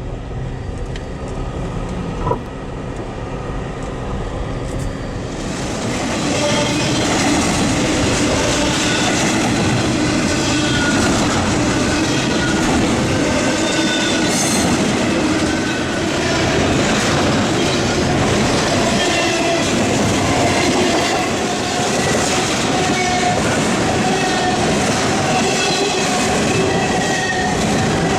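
A CSX freight train's cars rolling past, wheels clattering over the rails with a steady metallic squeal from the wheels. The noise swells about five or six seconds in as the cars come close, then stays loud.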